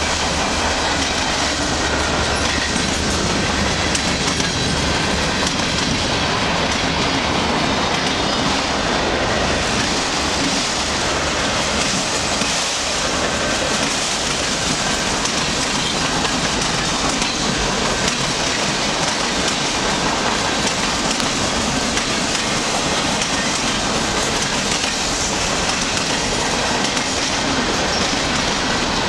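Long mixed freight train of covered hoppers and boxcars rolling past close by: a loud, steady rush of steel wheels on the rails. A deep low rumble underneath drops away about twelve seconds in.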